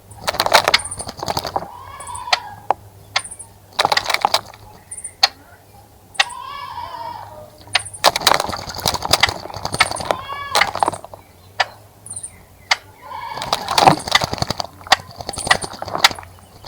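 Birds splashing in a bird bath in repeated short bursts, with brief calls from birds in between.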